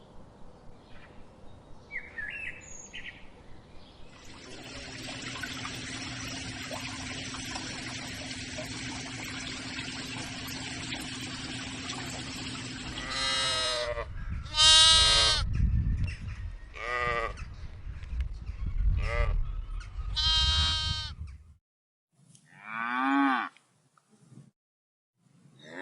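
Sheep bleating: a run of about six loud bleats in quick succession over a steady background hiss and hum, then one more wavering bleat near the end. Faint chirps come before the bleats.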